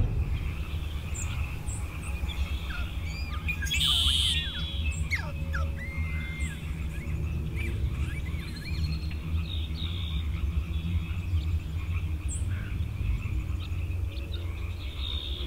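Birds chirping and calling over a steady low rumble, with a brief louder noisy burst about four seconds in.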